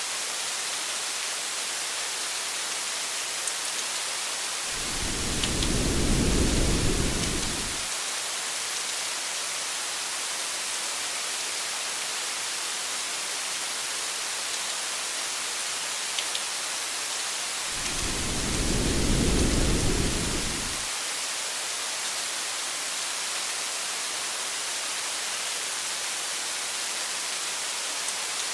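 Steady hiss of rain with two low rumbles of thunder, each lasting about three seconds, about five seconds in and again about eighteen seconds in.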